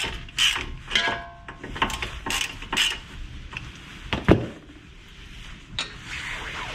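Wrench and metal parts clinking and scraping as the loose 18 mm nut is turned off the outer tie rod end stud, with a single louder knock about four seconds in.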